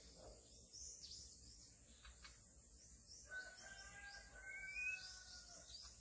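Wild birds calling in forest: short high chirps throughout, and from about three seconds in a clear whistled song phrase of several held notes, one rising near the end.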